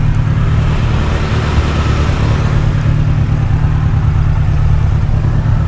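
VAZ-2106 Zhiguli's four-cylinder engine running, heard from inside the cabin as a steady low drone. A hiss of road or traffic noise swells and fades over the first three seconds.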